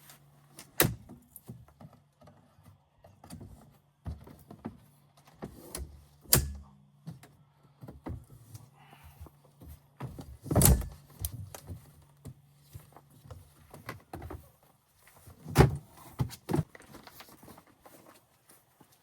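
Four loud thunks and knocks with smaller clicks between them, over a low steady hum that stops about three-quarters of the way through.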